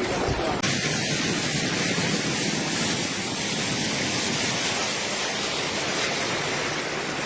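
Steady rushing noise of storm water from a heavy thunderstorm downpour, even and unbroken, changing abruptly about half a second in.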